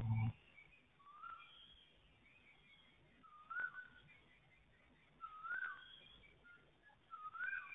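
A whistled call, rising then held briefly, repeated about every two seconds, with fainter, higher chirps behind it, typical of a bird calling before dawn. One dull thump at the very start is the loudest sound.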